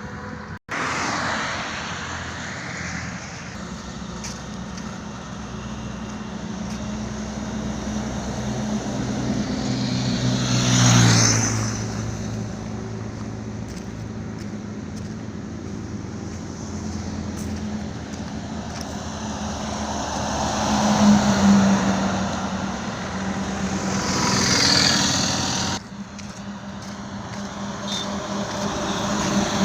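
Highway traffic: a steady engine drone under road noise, with vehicles passing loudly about eleven seconds in and again for several seconds near the end. The sound breaks off abruptly twice.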